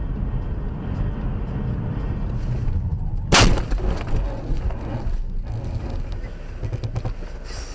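Steady low rumble of a car driving, broken about three and a half seconds in by one sharp, loud crash: a vehicle collision impact.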